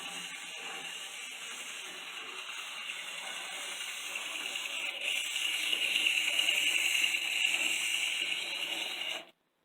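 N scale Atlas Plymouth switcher's small motor and gearing running at full speed on the track, a steady, somewhat noisy whir. It grows louder about halfway through and stops suddenly near the end.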